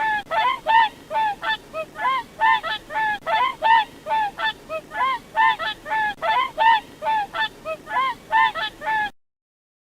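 Geese honking, a rapid run of repeated calls at about three a second, then cutting off suddenly near the end.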